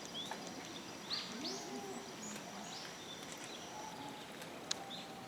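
Japanese macaques calling: a string of short rising-and-falling calls, several overlapping, with a single sharp click near the end.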